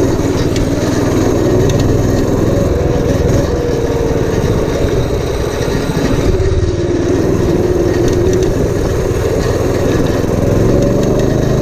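Predator 212cc single-cylinder four-stroke engine on a homemade minibike running steadily, its revs drifting slightly up and down.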